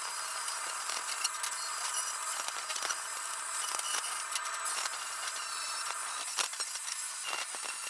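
A metalworking electric arc, welding or plasma, on automotive sheet metal, giving a steady hiss with fine crackling throughout.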